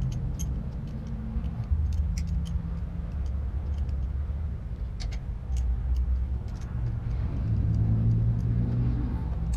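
Low steady rumble with scattered sharp, light metallic clicks at irregular times from hand tools tightening the bolt on a motorcycle's gear shift lever.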